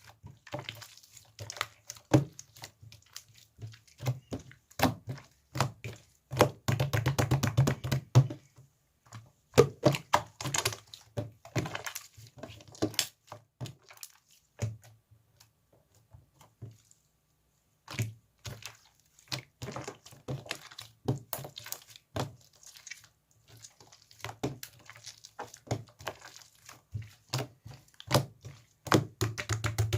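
Slime being squished and pressed by hand, giving a quick run of sharp clicks and pops as trapped air bursts. The clicking comes thickest about seven seconds in and again near the end, with a pause of a couple of seconds in the middle.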